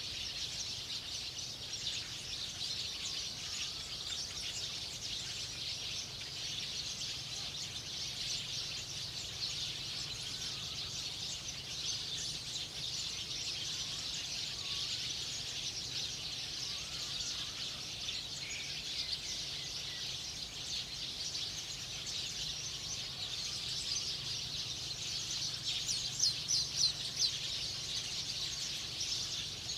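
Outdoor natural ambience: a continuous dense chorus of rapid high-pitched chirping, with a louder run of sharp chirps about 26 seconds in, over a faint steady low hum.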